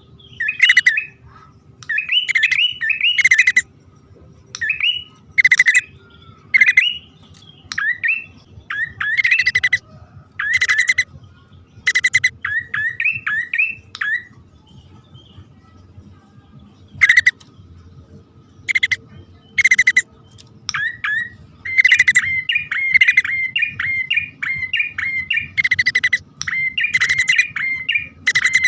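Prinia (prenjak) calling as a bird lure: bursts of quick, chirping notes, broken by sharp, loud clicks and short pauses. The sound is the male and female calling to each other.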